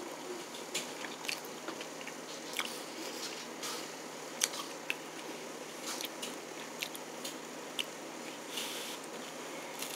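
A person chewing a mouthful of veggie corn dog, heard as soft, irregular mouth clicks and smacks. The sharpest click comes about halfway through.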